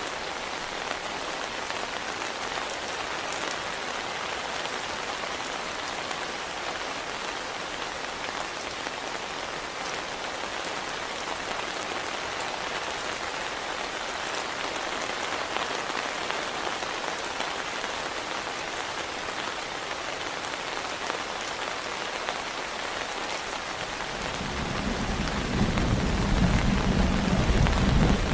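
Heavy rain falling steadily as an even hiss. Near the end a deep rumble of thunder builds and grows louder.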